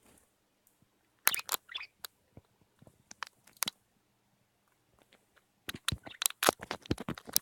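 A pet bird pecking and chewing, making a run of sharp clicks and crunches that come thicker near the end.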